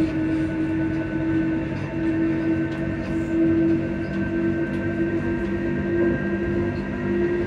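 Electric train's traction motors and inverter equipment humming steadily while under way, heard from inside the carriage: a steady hum with a fainter higher whine over the running rumble.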